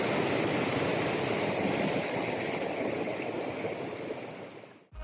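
Steady rushing of a mountain stream's running water, fading out near the end.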